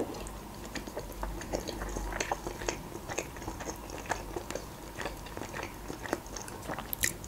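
Close-up mouth sounds of a person chewing beshbarmak, soft boiled dough sheets and boiled meat, with the mouth closed: a steady run of small irregular clicks and smacks, several a second.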